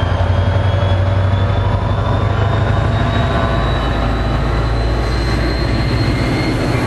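Diesel locomotive running close by: a loud, steady low drone with fast, even engine pulsing and a faint whine that slowly rises in pitch.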